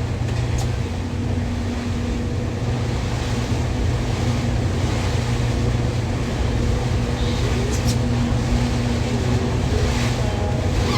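Motorboat engine running steadily, a low drone with wind and water noise.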